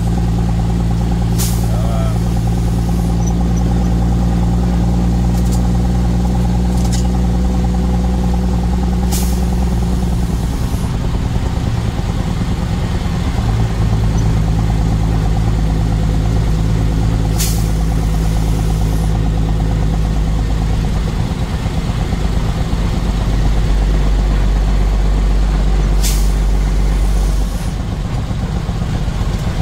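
Truck engine running steadily as the truck drives, its tone shifting a few times as the engine speed changes. Short hisses of air come about every eight seconds.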